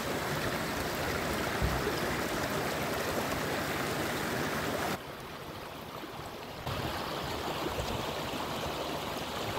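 Steady rush of flowing stream water. It drops abruptly in level about five seconds in and comes back up a couple of seconds later.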